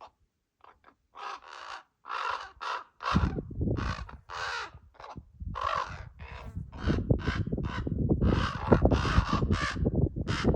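Ravens calling: a run of short, harsh caws, about two a second, the fledglings begging their parents for food. From about three seconds in, a low rumble runs underneath.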